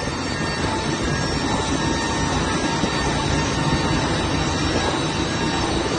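Steady jet-engine noise on an airport apron: an even roar with a faint, steady high whine running through it.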